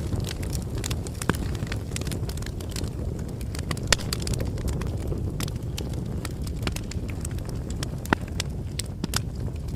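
Bonfire crackling: a steady low rumble of burning wood with sharp pops and snaps at irregular moments, the loudest about four seconds in.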